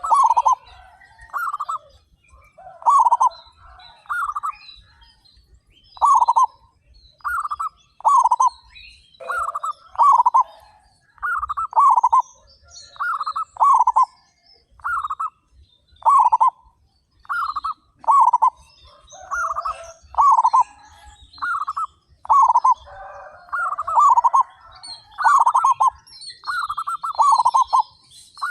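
Many zebra doves (perkutut) cooing, short falling coos repeating about once a second, sometimes overlapping from several birds. Fainter high chirping of small birds runs above them.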